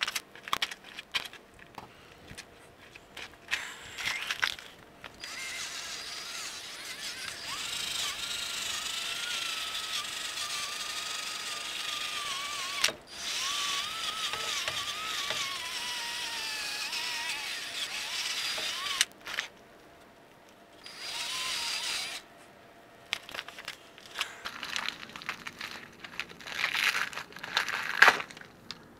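Tool work on a pickup's suspension: a steady whirring with a wavering pitch runs for about fourteen seconds, with scattered clicks and knocks before and after it.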